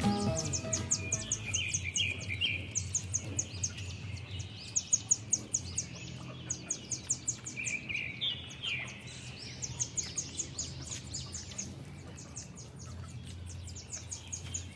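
Birds chirping in runs of quick, high, repeated notes with short falling calls, over a low steady hum.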